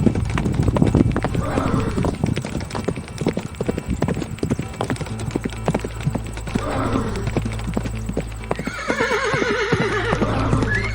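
A horse's hooves clopping rapidly on hard ground, with whinnies about a second and a half in, about seven seconds in, and a longer, louder wavering whinny near the end.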